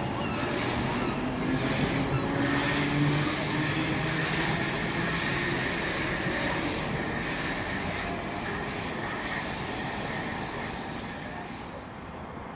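A train running through the station: dense rail noise with a faint rising motor whine and a thin high-pitched wheel squeal, loudest about three seconds in and then fading away.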